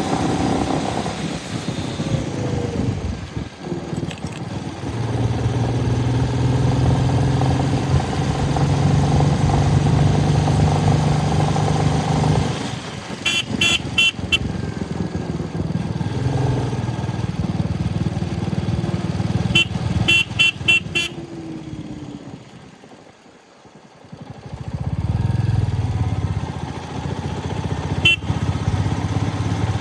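Royal Enfield Meteor 350's single-cylinder engine running on the move, with a steady low hum. A horn sounds in short rapid beeps twice, about halfway through and again a few seconds later. Near three-quarters of the way in the engine sound drops away for a couple of seconds, then rises again.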